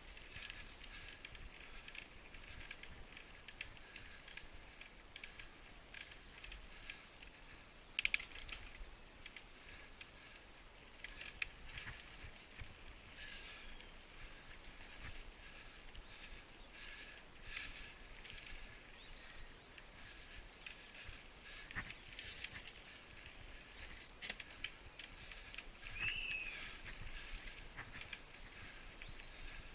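Faint rural outdoor ambience: a steady high-pitched drone with scattered light clicks and ticks, a sharp click about eight seconds in, and a short chirp near the end.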